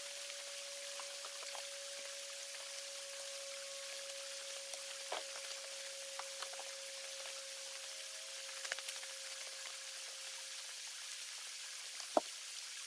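Creek running steadily, an even rushing hiss, with a faint steady tone under it. A few small clicks and knocks sound through it, the sharpest about twelve seconds in.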